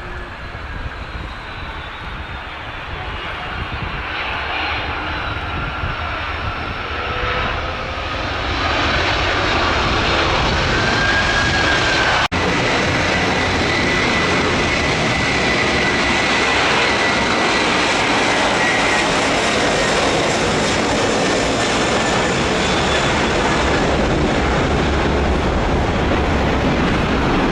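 Jet airliner engines, growing louder over the first eight seconds or so, then a steady loud roar with a thin whine above it. A brief sharp dropout comes about twelve seconds in.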